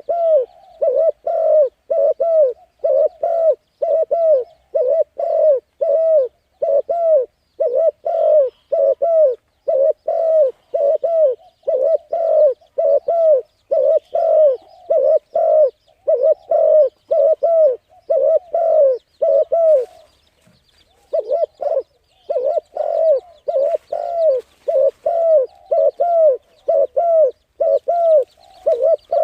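A bird calling in a fast, even series of short, arched, low notes, about two a second, with one pause of a second or so about two-thirds of the way through.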